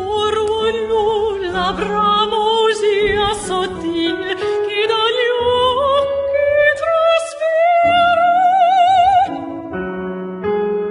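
Operatic-style singing voice with a wide vibrato over musical accompaniment, holding long notes and climbing steadily in pitch; the voice breaks off near the end while the accompaniment carries on.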